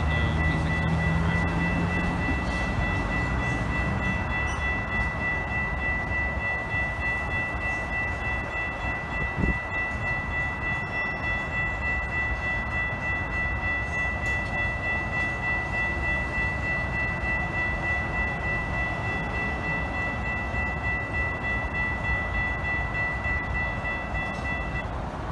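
Low rumble of a train, strongest in the first couple of seconds, over a steady background haze. A steady high electronic tone in several pitches runs through it and cuts off near the end, and there is one knock about nine and a half seconds in.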